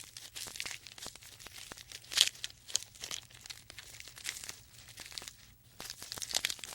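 Irregular soft crackling and rustling, many small clicks at uneven spacing, with a louder crackle about two seconds in.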